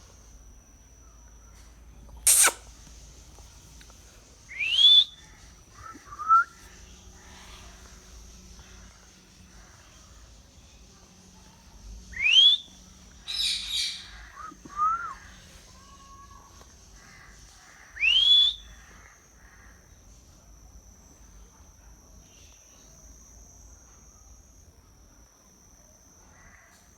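A pet parrot calling in separate bursts. There is a sharp call about two seconds in, three rising whistles spread through the middle, and a few harsher squawks between them, with pauses in between. A faint steady high-pitched tone runs underneath.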